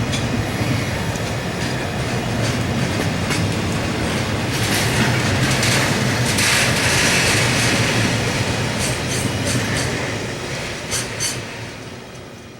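Freight train of empty oil tank wagons rolling past, with a steady rumble and wheels clicking over rail joints. A high wheel squeal swells about midway. The train noise fades away near the end.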